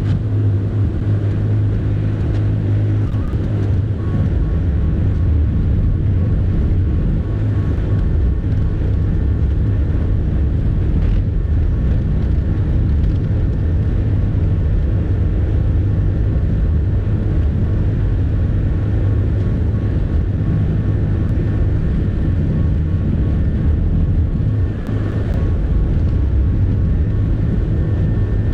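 Bobcat E50 mini excavator's diesel engine running steadily, a low, even drone with a faint steady high whine.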